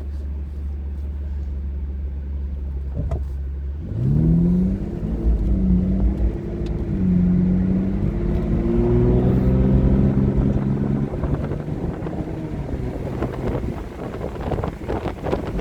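Aston Martin DB9's 6.0-litre naturally aspirated V12 running with a steady low rumble, then accelerating hard from about four seconds in, its pitch climbing and dropping back several times as the automatic gearbox shifts up. Wind buffeting rises toward the end.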